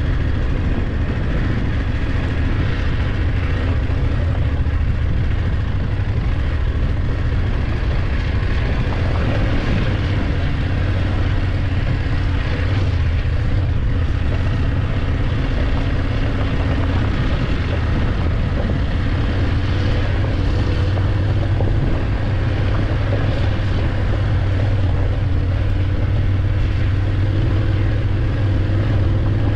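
BMW F850GS parallel-twin engine running steadily under way, with a steady rushing noise over it.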